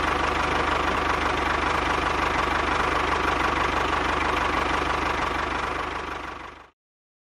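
Small engine of a home-built mini tractor idling steadily with an even, fast firing beat, then cutting off abruptly near the end.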